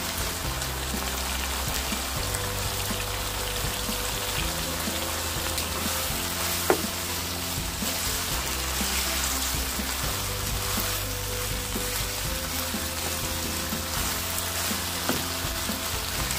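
Chicken pieces sizzling in a hot wok as they are stirred with a wooden spatula, a steady frying hiss, with one sharp knock about seven seconds in.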